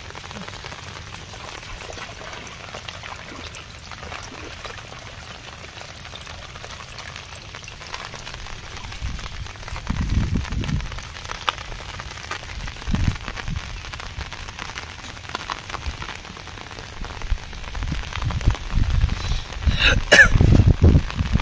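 Steady patter of rain. From about nine seconds in, low thumps and rumbles come in, loudest near the end, with a brief crackling burst shortly before it ends.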